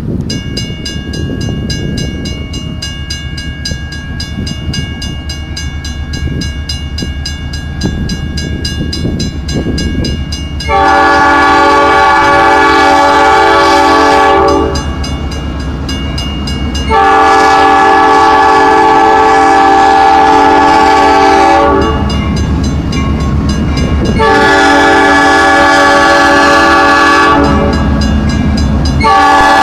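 A train running steadily, then its locomotive air horn sounding several long, loud blasts, the first about a third of the way in and the last starting near the end.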